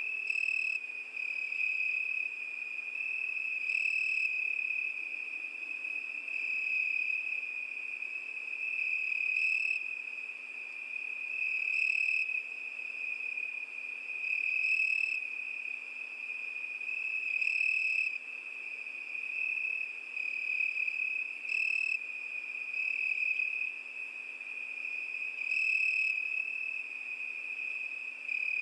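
Cricket song: a continuous high-pitched trill, swelling a little louder every few seconds, over a faint hiss.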